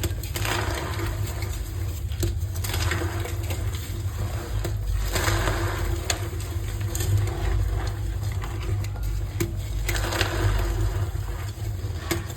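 Reformed gym chalk being crushed and squeezed by hand close to the microphone, crumbling in repeated crisp swells with a few sharp cracks.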